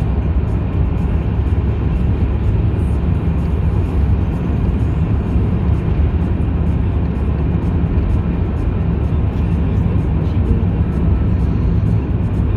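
Steady low road and engine rumble of a moving car, heard from inside the car.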